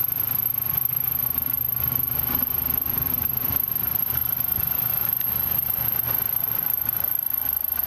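1990 Hyundai Sonata GLS's 2.4-litre inline four-cylinder engine idling steadily.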